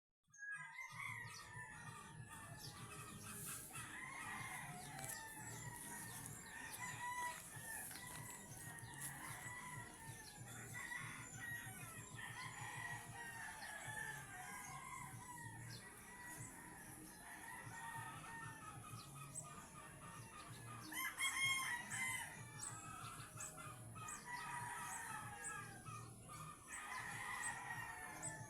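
Many chickens clucking and calling over one another, with one louder call about three quarters of the way through.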